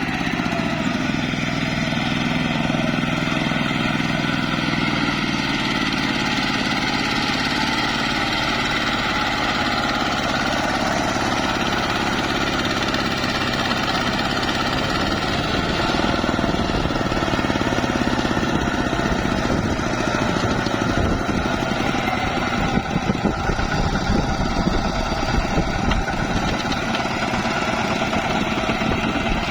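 ZT 155 tractor engine running steadily, with rougher knocking from about halfway through.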